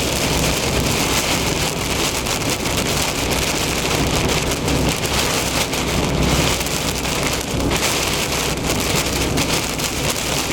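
Heavy thunderstorm rain falling on a moving car, with tyre and road noise underneath. It is a steady, unbroken hiss with a low rumble below it.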